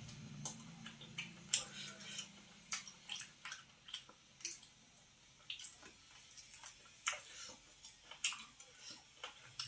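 Irregular light clicks and taps of utensils, about one or two a second, with no steady sound beneath them.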